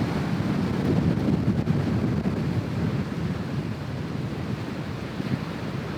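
Wind buffeting the microphone over the steady wash of ocean surf, the gusts easing a little about halfway through.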